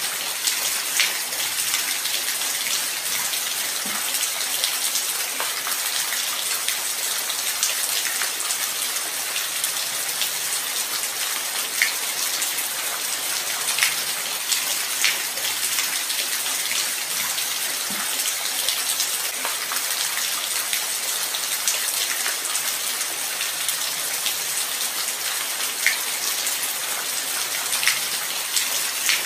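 Light rain falling steadily: an even high hiss, with single louder drops ticking out every second or two.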